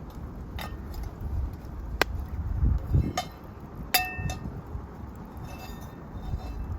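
A few light clinks of metal cooking utensils against cookware, the one about four seconds in ringing briefly, over a steady low rumble.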